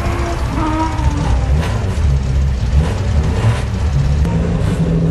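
Classic competition car engine idling with an uneven low rumble; near the end it settles into a steady hum.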